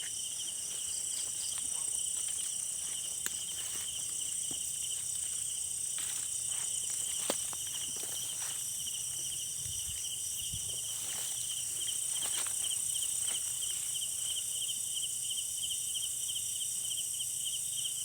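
Night insects, crickets or similar, trilling steadily in a dense chorus at two high pitches, with a few faint scattered clicks, the sharpest about seven seconds in.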